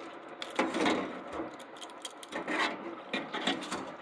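Several irregular, rough scraping and rubbing strokes, about five.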